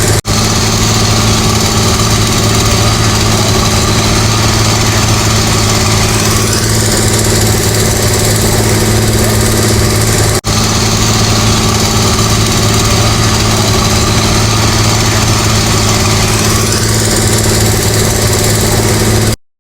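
Engine of road construction machinery running steadily at an unchanging pitch. The sound drops out for an instant twice, once just after the start and once about halfway, then cuts off just before the end.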